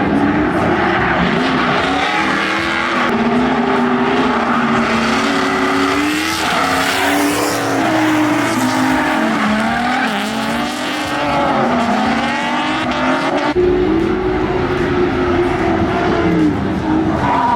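LS V8 engine of a drift car revving up and down, with tyres squealing and sliding. The sound changes abruptly about three-quarters of the way through.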